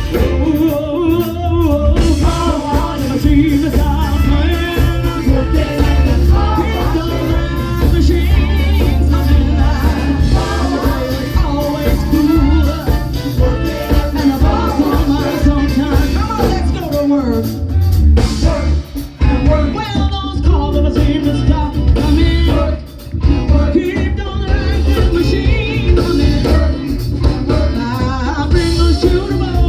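Live band playing an upbeat funk-disco song with a strong bass line and drums, a singer's voice on top.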